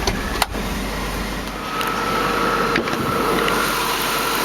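4.6-liter V8 idling steadily, with two sharp clicks just after the start and another near the middle. The engine gets a little louder about halfway through.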